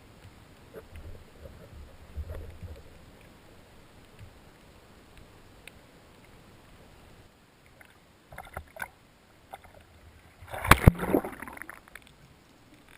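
Scattered faint knocks and clicks, then a loud short clatter of sharp knocks with a noisy rush about eleven seconds in.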